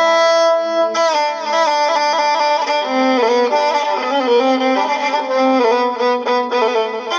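Violin playing an ornamented melody over a held low note: an instrumental passage between the sung lines of an Iraqi mawwal.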